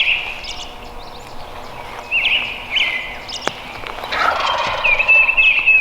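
Male wild turkey gobbling close by, one rattling gobble about four seconds in, with higher bird chirps repeating around it.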